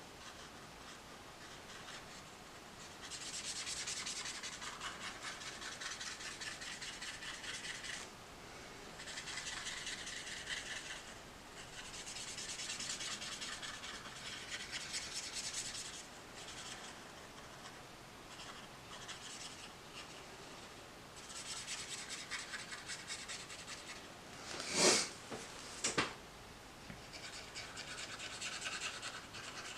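Tombow brush marker stroking across colouring book paper: a soft rubbing in stretches of a few seconds with short pauses between, as areas are base coated. About 25 seconds in, two sharp knocks a second apart stand out as the loudest sounds.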